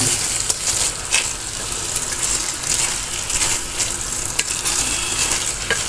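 Potatoes and grated eggplant sizzling steadily as they fry in a pan, with a wooden spatula stirring and scraping through the mixture. A few light clicks come from the spatula against the pan.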